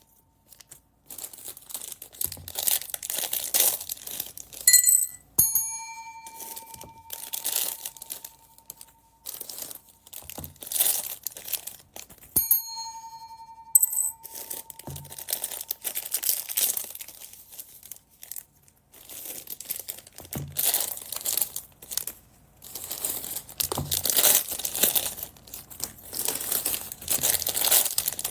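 Plastic bead bags crinkling and rustling as they are handled and opened, in repeated bursts. A steady bell-like ringing tone comes in a few times, lasting a second or more each time.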